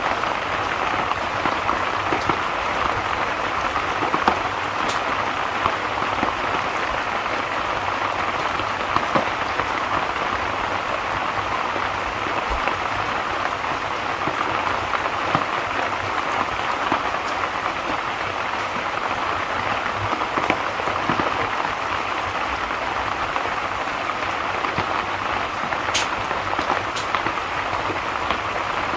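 Steady, even rain, with a scattered few sharp clicks standing out from it, two of them close together near the end.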